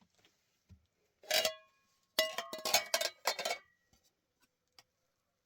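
Dishes and kitchenware clattering: knocks with brief ringing tones, in a short burst about a second in and a longer one from about two to three and a half seconds in.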